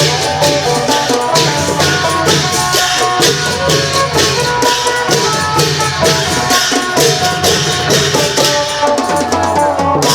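Isan klong yao long-drum band playing: a phin lute picks a quick melody over long drums and cymbals that keep a steady beat.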